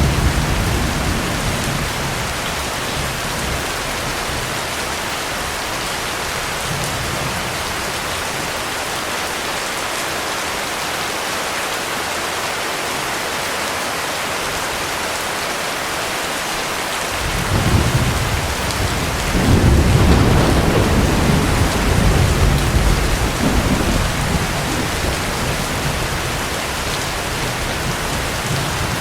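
Heavy rain falling steadily, with thunder. A low rumble fades over the first few seconds, and another roll of thunder comes in about seventeen seconds in, is loudest a few seconds later, then dies away.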